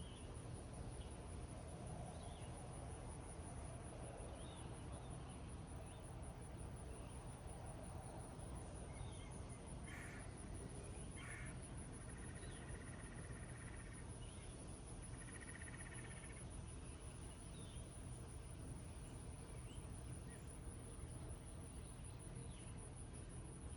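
Gentle rain falling over a meadow, with a steady high insect trill and birds chirping now and then. A few harsher bird calls come about ten to sixteen seconds in.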